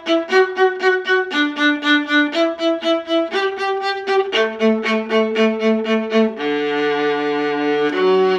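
Bowed strings playing a beginner orchestra piece: short detached notes repeated about four times a second, stepping to a new pitch every second or so, then longer held notes over the last couple of seconds.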